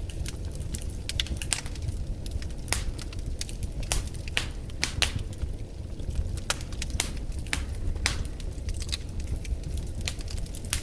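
Wood fire in a fireplace crackling, with many irregular sharp pops over a steady low rumble of the flames.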